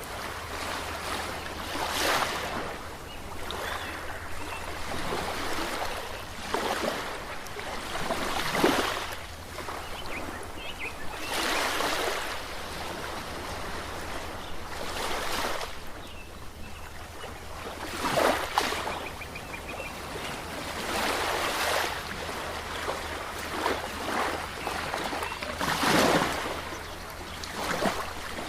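Ocean waves washing and breaking, with a surge of surf and splashing every two to four seconds.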